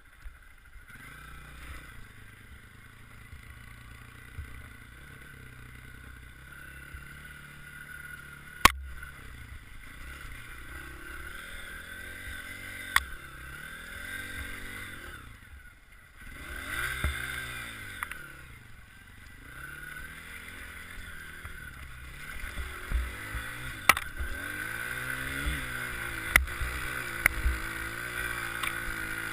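Dirt bike engine revving up and down again and again, its pitch rising and falling, with a handful of sharp knocks.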